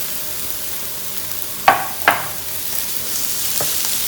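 Marinated chicken pieces sizzling in oil on a hot griddle set to 400 °F, a steady hiss. Two sharp clinks about half a second apart midway stand out as the loudest sounds.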